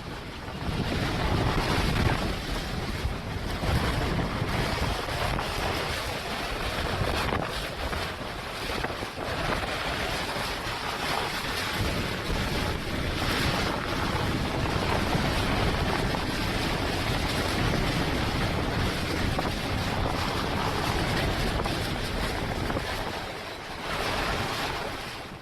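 Strong wind and breaking waves at sea, with wind buffeting the microphone in uneven surges.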